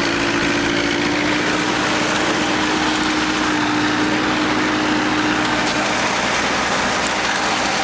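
Old Massey Ferguson diesel tractor engine running steadily, with its PTO engaged.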